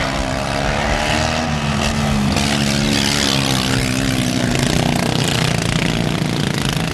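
Modified racing lawn tractors' small engines running hard, several at once, their pitch rising and falling as they race around the track.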